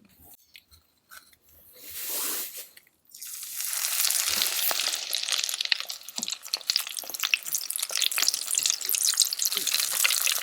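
A few light clicks, then food starts sizzling in a hot pan about three seconds in, a steady hiss full of fine crackles.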